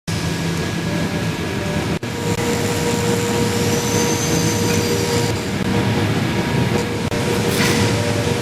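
Blastabrade 4860 Spinner blast machine running: a steady, loud rush of noise with a constant hum under it, briefly dropping out about two seconds in.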